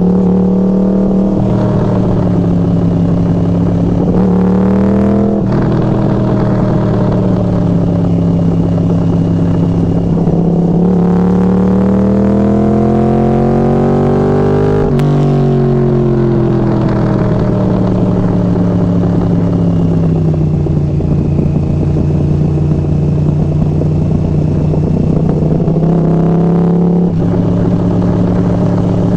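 Yamaha R1's inline-four engine through Hotbodies MGP Growler carbon slip-on exhausts, riding: the note climbs under acceleration from about ten seconds in, drops sharply about halfway, then falls away slowly and settles, with sudden steps in pitch near the start and near the end.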